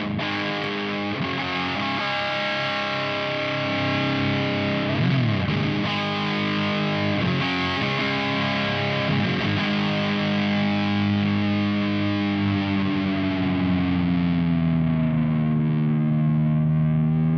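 Electric guitar played through an Ibanez Metal Charger distortion pedal, heavily distorted. Chords are struck and let ring. In the last few seconds a long held chord slowly sinks in pitch and comes back up.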